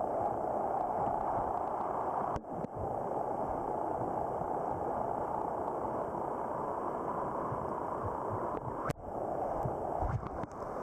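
Mountain stream water rushing over rocks in a steady noise, with brief breaks about two seconds and nine seconds in.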